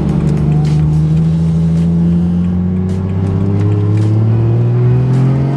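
Inline-six engine of a single-turbo BMW 135i pulling under load with no exhaust, dumping straight from the downpipe, its pitch climbing steadily as it revs up through a gear, heard from inside the car.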